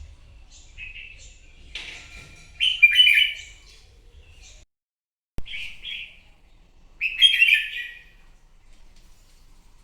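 Red-whiskered bulbul singing in short, loud, warbled phrases, separated by pauses. About halfway through, the sound drops out completely for under a second and comes back with a sharp click.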